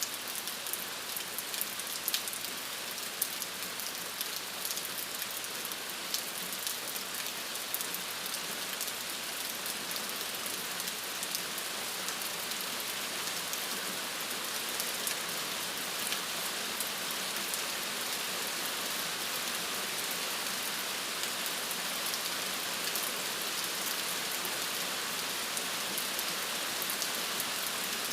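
Steady rainfall, a dense even hiss with many individual drops ticking on a surface.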